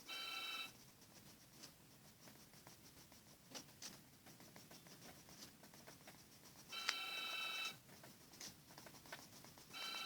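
A short electronic beep-like tone, several steady pitches sounding together, heard three times, each under a second: at the start, about seven seconds in, and near the end. Between the tones there is faint scratching with light taps.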